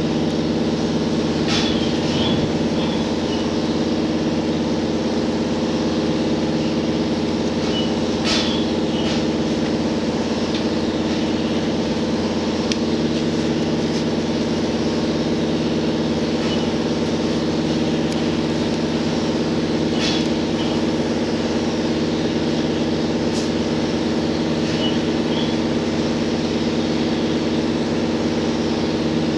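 JR Hokkaido H100 diesel-electric railcar running at a steady speed, heard from inside the cabin: a steady drone from its diesel engine and electric drive. A few sharp clicks sound through it at irregular intervals.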